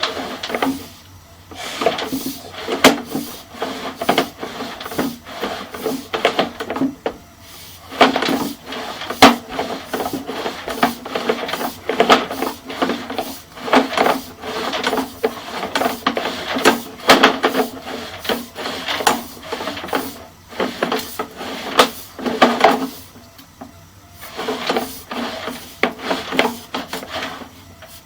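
Sewer inspection camera being pushed down a drain line: irregular knocking, clacking and scraping as the push cable and camera head work along the pipe, with a few short pauses.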